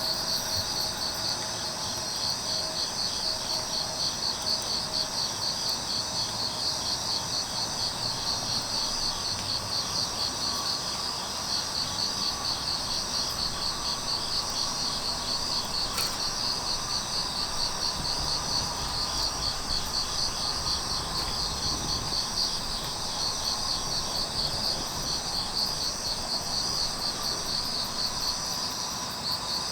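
Grass insects, crickets, chirping in a steady, evenly pulsing chorus, with one sharp crack about halfway through.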